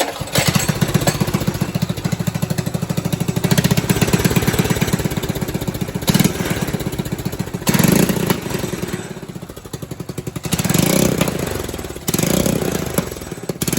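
Small pull-start engine with an aftermarket exhaust, cold-started and catching at once, then running with a fast, even firing beat. It is revved up three times in the second half.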